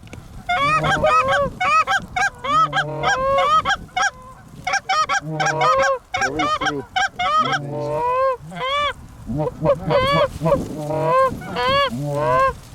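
Canada goose honks, many rapid arched honks and clucks in quick groups with short breaks between them, loud and close.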